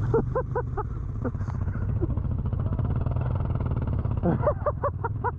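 Adventure motorcycle engine running steadily at low revs, with two short runs of laughter, one right at the start and another about four seconds in.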